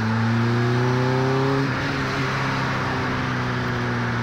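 Vauxhall C16SE 1.6-litre four-cylinder engine in a classic Mini, heard from inside the cabin as it pulls under acceleration, its note rising for about a second and a half. It breaks off briefly, then settles into a steady drone.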